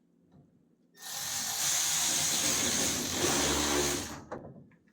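A power drill runs steadily for about three seconds, starting about a second in and winding down near the end.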